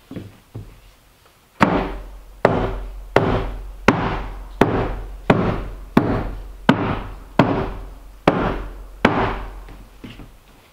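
A series of about eleven hard knocks, evenly spaced under a second apart, each ringing briefly, with lighter taps before and after.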